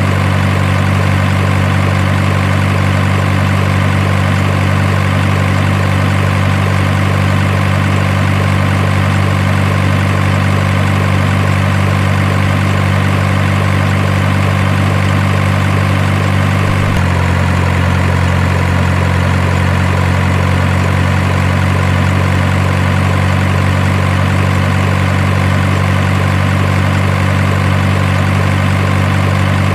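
Simulated heavy truck engine idling, a steady low drone for a toy RC truck, with a slight change in its tone about halfway through.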